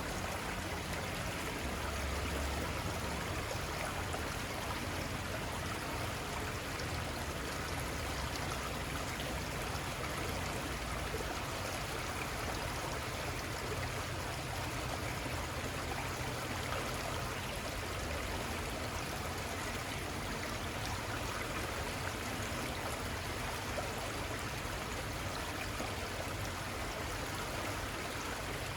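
The Little Conestoga River flowing: a steady, unbroken wash of running water.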